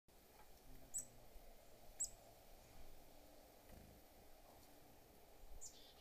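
Small songbird calling: two short, high chirps about a second apart, then a quick run of falling notes near the end, over a quiet background.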